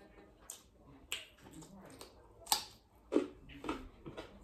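Close-mic mouth sounds of eating rice and curry: chewing with a run of sharp, wet lip smacks and clicks at irregular intervals, the loudest two about halfway through and near the end.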